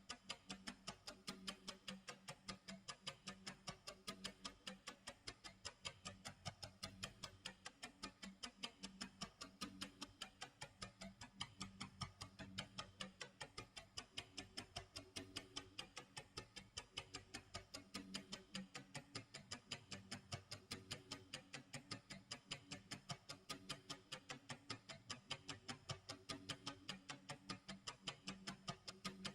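Faint tick-tock clock sound effect: quick, evenly spaced ticks, about three to four a second, over a low tone that comes and goes.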